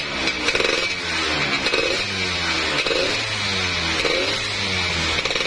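Tuned Yamaha F1ZR two-stroke single-cylinder motorcycle engine revved up and down in repeated blips about once a second, with a raspy 'ngorok' growl in its exhaust note.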